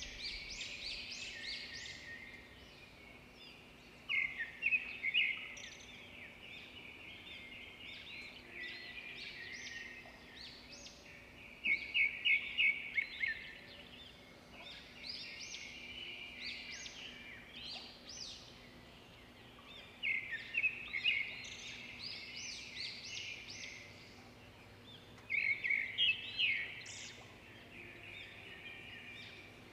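Birds chirping steadily, with four louder bursts of quick repeated chirps spread through the stretch.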